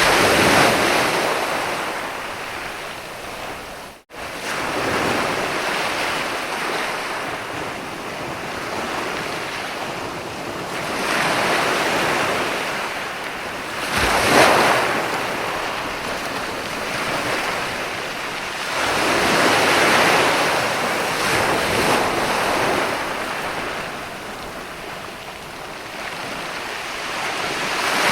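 Mediterranean sea waves breaking and washing up a beach, swelling into a louder surge every several seconds. The sound cuts out for an instant about four seconds in.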